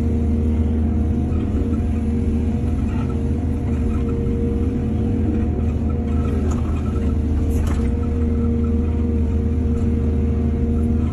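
Excavator's diesel engine running steadily with a low rumble, with two brief knocks a little past the middle.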